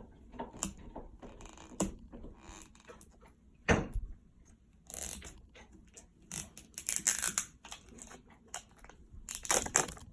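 Packaging of an LOL Surprise toy being torn and crinkled open by hand, with scattered clicks, a sharp knock a little under four seconds in, and several bursts of crinkling in the second half.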